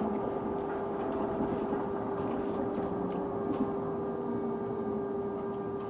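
London bus giving off a weird noise on a constant pitch: a steady mid-pitched tone that does not change, with fainter higher tones above it, over the bus's running rumble.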